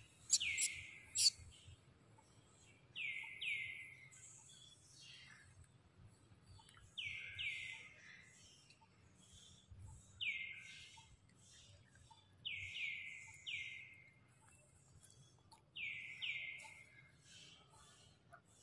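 A bird calling with a repeated falling note, in twos and threes every few seconds, over fainter high chirps.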